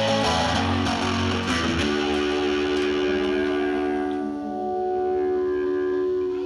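Distorted electric guitar band music: strummed chords until about two seconds in, then a held chord that rings on steadily.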